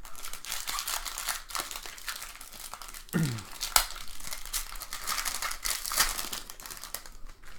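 Foil wrapper of a trading-card pack crinkling and tearing as it is opened: a dense crackle of small snaps, with a couple of sharper ones about four and six seconds in.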